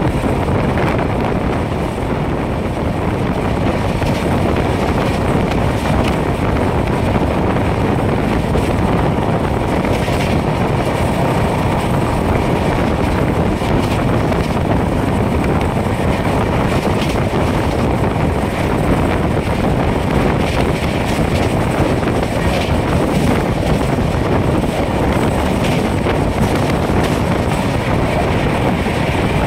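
Steady running noise of a passenger train's coaches at speed, heard from an open door or window, with wind buffeting the microphone.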